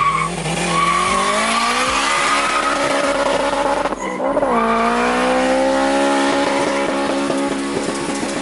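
Car engine under hard acceleration, its pitch climbing, dropping at an upshift about four seconds in, then climbing again in the next gear.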